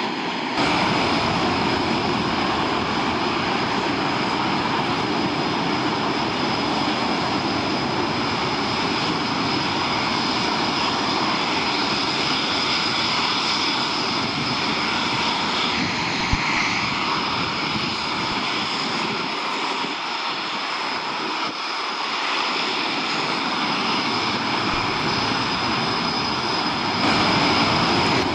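Military aircraft engines running steadily: a dense, continuous noise with a steady high whine, getting a little louder just after the start and again near the end.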